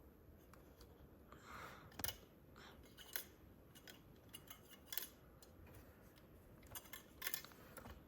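Scattered light clicks and taps of a die-cast model truck's metal and plastic parts being handled, the sharpest about two, five and seven seconds in.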